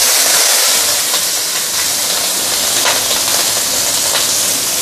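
Raw prawn heads and shells sizzling as they hit very hot oil in a stainless steel wok: a steady hiss that starts suddenly, with a few sharp crackles as the water in the prawns spatters.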